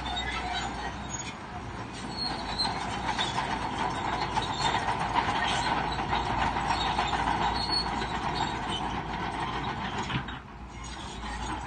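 Crawler bulldozer working, its steel tracks squealing and clanking steadily over the engine. The sound dips briefly about ten seconds in.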